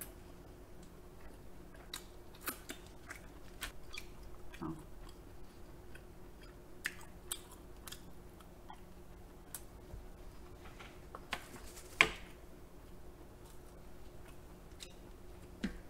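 Close-miked chewing and small wet mouth clicks of someone eating king crab meat, with one sharper click about twelve seconds in.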